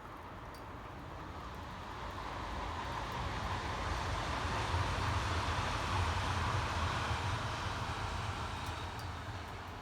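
A vehicle passing by, growing steadily louder to a peak about halfway through and then fading away.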